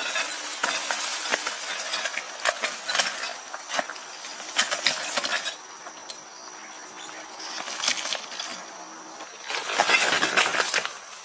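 Irregular light clicks, clinks and rustling, as of small objects being handled, with a quieter spell in the middle and a dense flurry near the end.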